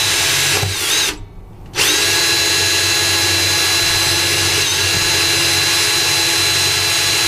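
Power drill running at a steady pitch, boring a 1/8-inch pilot hole through a boat's hull; the trigger is let off briefly about a second in, then the drill runs steadily again.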